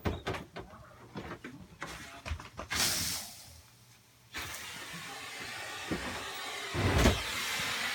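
Knocks and rattles of vacuum hose or pipe being handled, a short rush of air about three seconds in, then the central vacuum's suction running as a steady airflow hiss from about halfway, with a thump near the end. The vacuum is a homemade central vacuum powered by a Miele Titan, being checked for a blockage in its piping.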